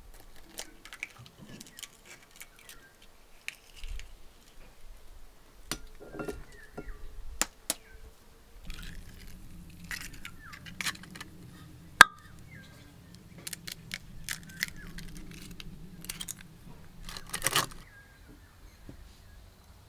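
Scattered clinks and knocks of kitchen dishes and utensils being handled during cooking, with one sharp click about halfway through. A low steady hum runs through the middle part.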